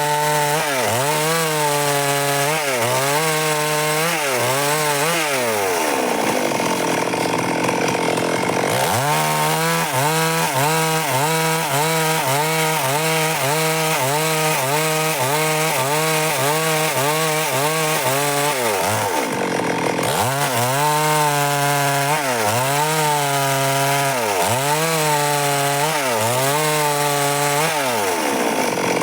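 Stihl MS 382 two-stroke chainsaw cutting dry wood under load, its engine pitch dipping and recovering about once a second as the bar is worked through the cut. It runs steadier through the middle, with a rougher stretch around a quarter of the way in.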